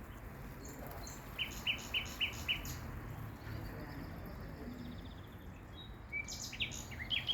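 A bird calling: a quick run of five short, sharp notes, about four a second, starting about a second and a half in, then another burst of varied chirps near the end, over steady background noise.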